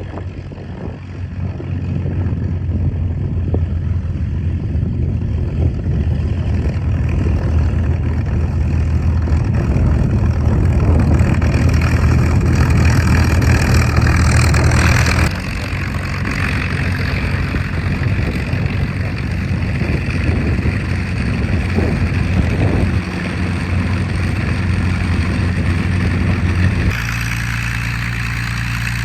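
P-51 Mustang's Merlin V-12 engine running loudly and steadily, with a deep, even drone. Its level drops suddenly about halfway through and again in smaller steps towards the end.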